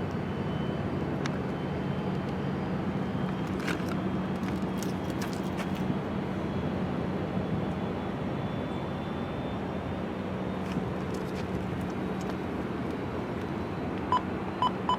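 Steady engine noise of aircraft on the airfield: an even wash of noise over a low steady hum. A run of short, evenly spaced beeps starts near the end.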